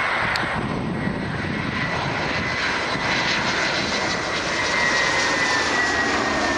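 Jet airliner on approach, its engines passing close: a steady jet noise with a high whine that slowly falls in pitch, growing louder about two-thirds of the way through.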